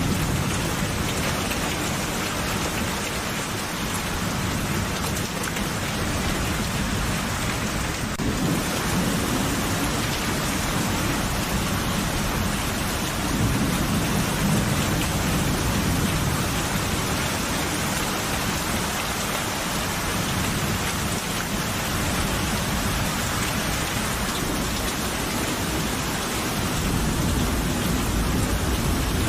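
Steady heavy rain with thunder rumbling low and swelling several times, about every few seconds to ten seconds.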